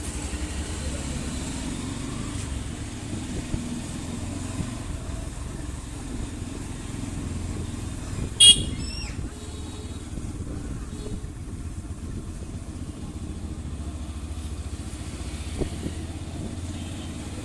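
Yamaha FZ-S V3 motorcycle's single-cylinder engine running steadily while riding. A brief, sharp, high-pitched sound with several tones stands out about eight and a half seconds in, the loudest moment.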